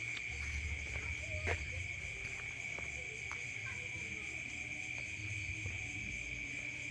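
A steady, high-pitched drone of calling insects that carries on without a break, with a few faint clicks over it.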